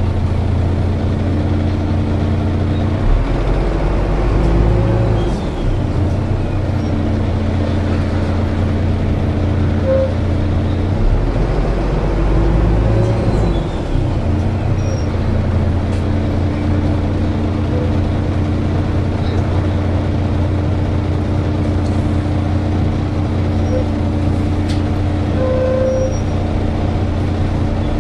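Cabin of a Volvo B7TL double-decker bus on the move, with the engine running and a steady squealing, hoover-like whine from the engine cooling fan that breaks off briefly a few times.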